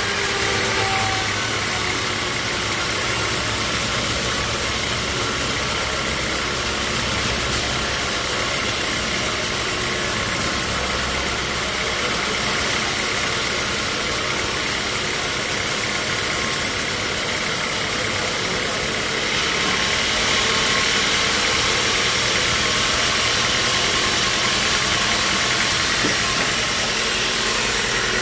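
Sawmill machinery running steadily, an engine-driven hum under a dense hiss. About two-thirds in, the hiss turns brighter and a little louder.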